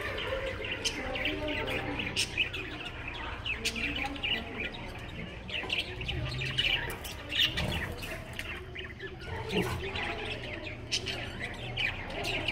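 Small birds chirping busily, many short high chirps and squeaks overlapping, over a low steady hum.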